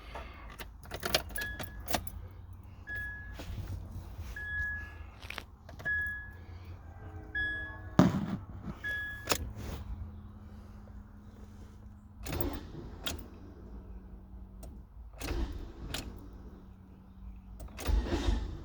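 Keys jangling at the ignition of a 2000 Nissan Altima while the car's warning chime beeps about every second and a half. Then come a few sharp clicks and knocks as the key is worked, with no engine cranking, which the owner puts down to a bad starter.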